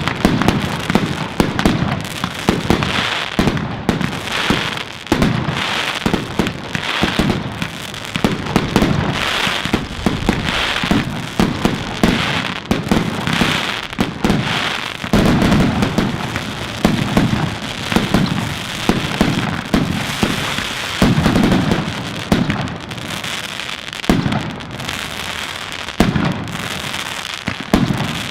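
Fireworks going off without pause: a dense run of bangs and crackling, with a deep boom every second or two.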